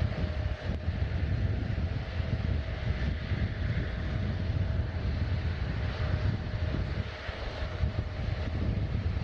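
Airliner engines running at an airport: a steady low rumble with a faint, even whine over it.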